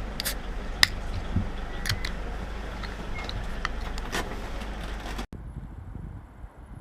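Vehicle noise on the move: a steady low rumble with wind, broken by several sharp clicks or knocks. About five seconds in it cuts off abruptly to a much quieter background.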